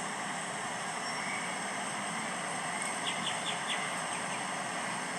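Steady running noise of a Sydney electric suburban train at a station platform, with four quick high chirps about three seconds in.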